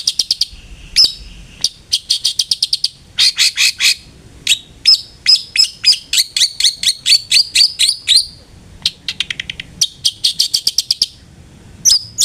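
Long-tailed shrike (cendet) singing in fast runs of sharp, repeated high notes, several bursts with short breaks between them.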